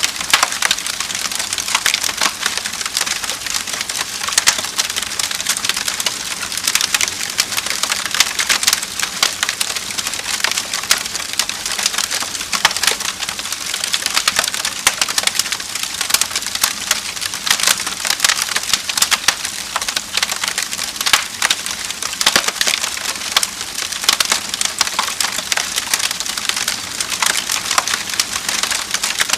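Wood fire in a fireplace crackling and popping steadily: a dense stream of small sharp snaps over a soft hiss.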